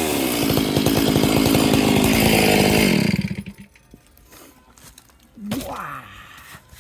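Large 70–80 cc two-stroke chainsaw running at high, steady revs, then stopping abruptly about three seconds in. About two seconds later there is a shorter, quieter rev that rises and falls.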